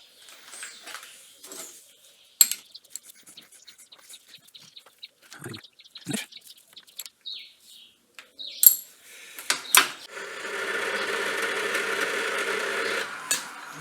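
Scattered clicks, taps and a few sharp metal knocks from tools being handled at a small lathe. About ten seconds in, the lathe starts up and runs steadily.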